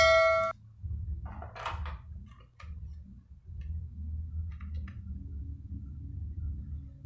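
A metallic clang rings out and stops abruptly about half a second in, followed by light clicks and a brief scrape as small laptop parts (drive caddy, latch, screws) are handled, over a steady low hum.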